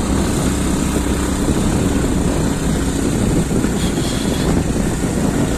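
Motorcycle engine running steadily while riding along a rough road, with wind rushing over the phone's microphone.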